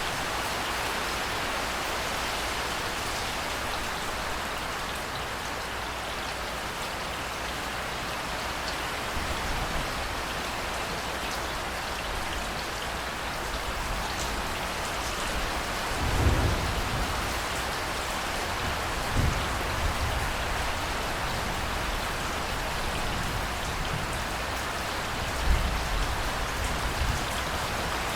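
Steady rainfall, an even hiss of drops. A few brief low rumbles come through about halfway in and again near the end.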